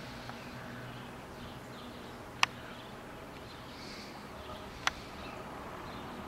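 Outdoor background with faint high bird chirps, broken by two sharp clicks about two and a half seconds apart.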